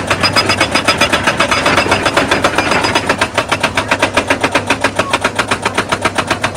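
Excavator-mounted hydraulic rock breaker hammering stone in rapid, steady blows, about eight a second, over the machine's diesel engine.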